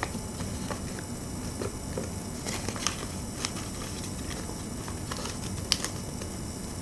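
Origami paper being handled and folded by hand: scattered soft rustles and sharp little ticks over a steady background hiss.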